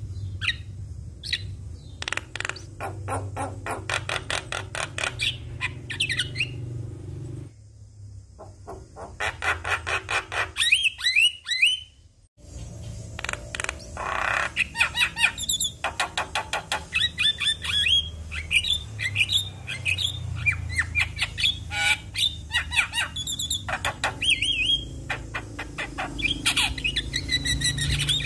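Javan myna (jalak kebo) singing: fast runs of repeated chattering notes mixed with harsh squawks and whistled notes, over a low steady hum. The song breaks off abruptly about twelve seconds in and picks up again a moment later.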